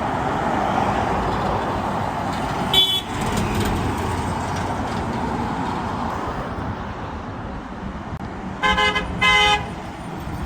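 Road traffic passing steadily, with a vehicle horn sounding one short blast about three seconds in and two short blasts in quick succession near the end.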